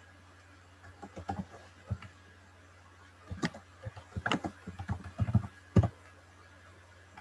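Irregular sharp clicks and knocks, a dozen or so between about one and six seconds in, the loudest near the end, over a low steady electrical hum.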